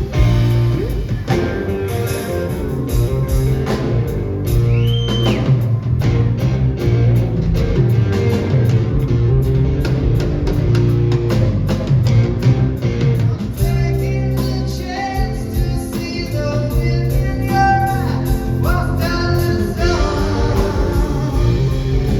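A live blues-rock band playing electric guitar over bass and drums, with sustained, bending lead guitar notes in the second half.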